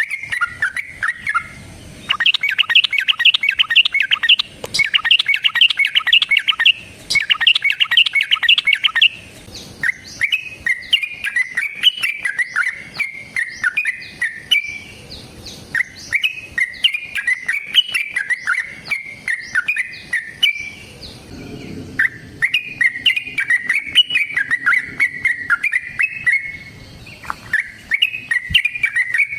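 Yellow-vented bulbul singing its loud, bubbling song. Three bursts of rapid chattering notes come first, then long rolling phrases of quick gliding notes with short pauses between them.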